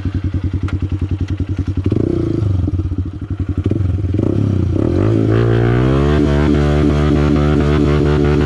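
Honda CRF150L dirt bike's single-cylinder four-stroke engine idling in even pulses, blipped a couple of times, then rising in pitch about halfway through and running steadily at higher revs as the bike pulls away.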